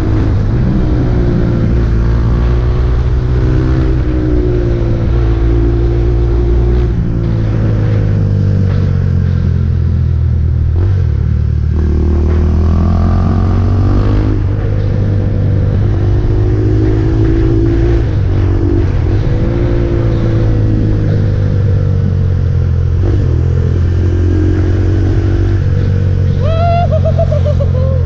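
KTM RC 390's single-cylinder engine through an Akrapovic exhaust, under way and pulling up through the gears: the note rises again and again with breaks at the shifts.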